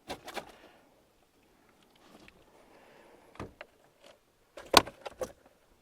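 A few sharp knocks and rattles of gear being handled in a fishing boat, the loudest a cluster near the end.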